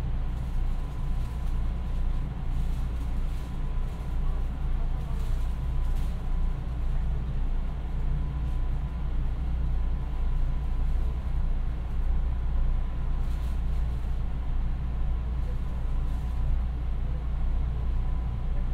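Interior running sound of a JR West 221 series electric train at steady speed: a constant low rumble of the wheels and running gear on the rails, with a faint steady whine above it.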